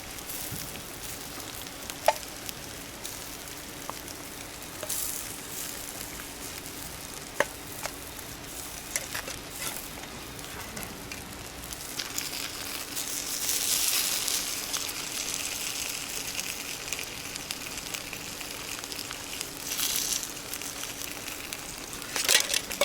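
Food sizzling over a wood fire in a small fire pit: a steady frying hiss with a few sharp pops, swelling louder a couple of times.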